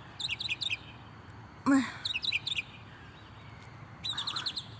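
Small songbird chirping in quick runs of short, high notes, three runs in all, with one louder rising call about two seconds in.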